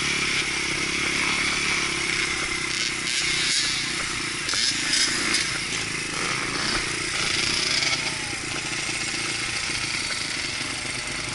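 Dirt bike engine running, with rough wind and ride noise and a steady high whine. The engine pitch wavers up and down a few times in the second half.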